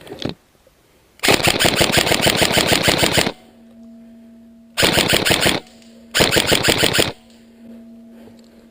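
Airsoft electric gun firing on full auto: one long burst of about two seconds, then two shorter bursts close together near the end, each a rapid, even string of shots.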